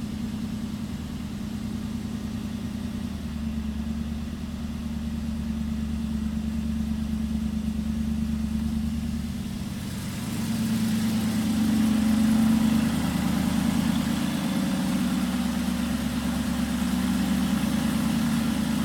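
Aston Martin Vantage engine idling after a cold start. About halfway through it grows louder and fuller, swells briefly, then settles into a steady idle.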